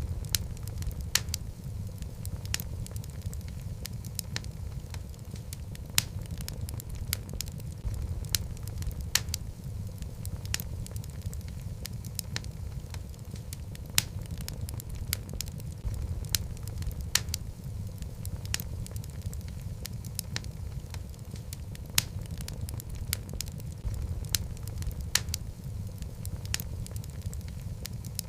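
Wood logs burning in a fireplace: a steady low rumble of flame with frequent, irregular crackles and sharp pops, a few of them much louder than the rest.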